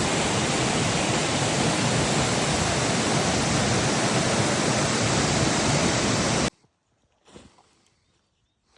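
Waterfall's steady rush of falling water, a dense even noise that cuts off abruptly about six and a half seconds in. A faint short sound follows about a second later.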